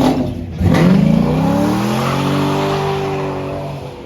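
A car engine revving hard: after a brief dip about half a second in, its pitch climbs for about a second and a half, then holds high and fades near the end.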